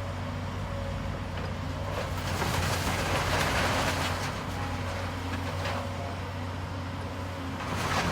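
Demolition excavator's diesel engine running steadily, with a faint hydraulic whine and a louder rush of noise about two to four seconds in as the machine works.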